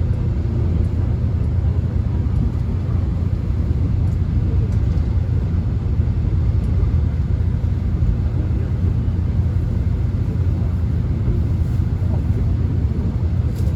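Steady low rumble and noise of a subway train heard from inside the passenger car, with no distinct clicks or announcements standing out.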